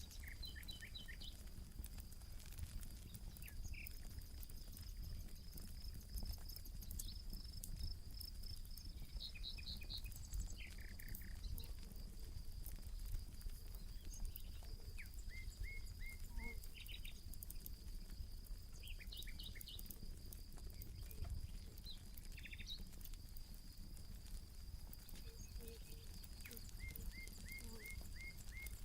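Campfire crackling with scattered sharp pops over a low steady rumble, while birds call in short repeated chirp series and quick trills. A steady high tone runs underneath.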